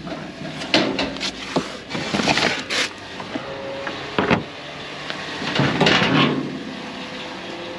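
Rummaging through a pile of scrap: irregular knocks, clatters and scrapes of metal and wooden items being moved and handled, over a steady low hum.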